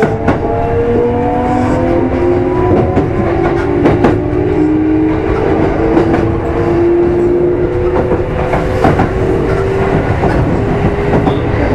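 Kintetsu 5200 series motor car Mo 5257 under way, its traction motor and gear whine rising slowly in pitch as the train gathers speed, over a steady rumble. Wheels click over the rail joints now and then.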